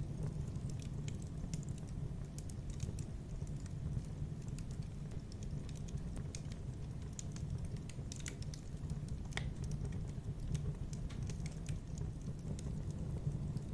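Fireplace wood fire crackling: irregular sharp pops and snaps over a steady low rumble of the burning fire.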